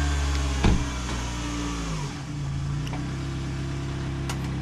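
A Toyota Camry's 2.4-litre four-cylinder engine running just after being started, its pitch dipping briefly about two seconds in before settling steady. There is a sharp click just under a second in.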